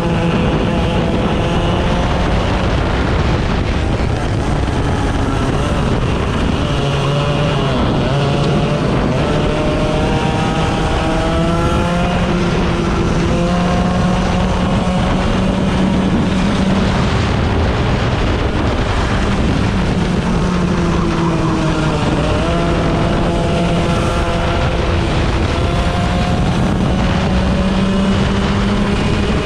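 A 100cc racing kart engine at speed, heard close and without a break. The revs climb steadily for several seconds, then drop sharply as it slows, and this happens about three times over steady wind and track noise.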